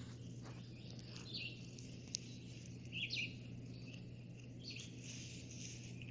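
Faint bird chirps, a few short calls a second or two apart, over a steady low hum.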